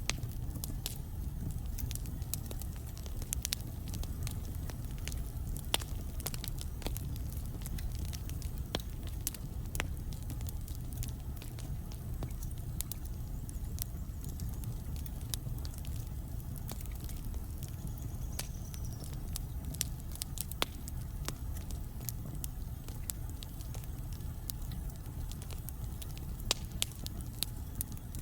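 Wood logs burning in a fireplace, crackling with sharp, irregular pops over a steady low rumble of the flames.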